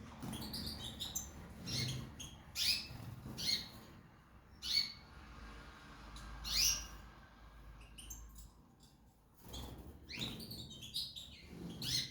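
Small cage birds chirping: short, separate high calls at irregular intervals, a few louder ones, and a quick run of calls near the end.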